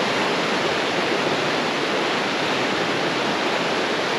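A fast creek swollen with snowmelt, rushing in a loud, steady roar of water.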